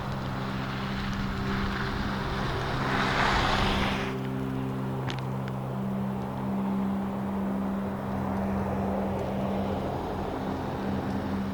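A vehicle engine running with a steady low hum, under the constant rush of storm wind; a louder gust of hiss swells about three seconds in and drops away a second later.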